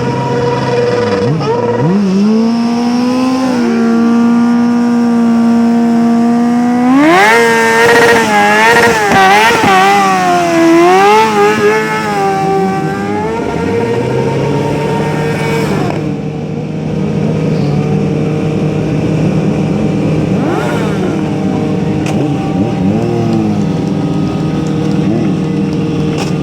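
A vehicle engine revving hard. It climbs about two seconds in, is held high with the revs rising and falling for about six seconds in the middle, then drops back to a steady lower drone.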